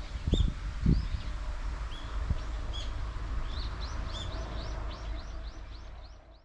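A small bird calling with short high chirps, breaking into a quick run of chirps, about three a second, in the second half. Under it a steady low rumble with a couple of dull thumps in the first second; the sound fades out at the end.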